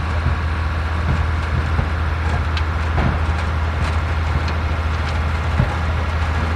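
Vintage tractor engine running steadily, with scattered clicks and knocks from working machinery.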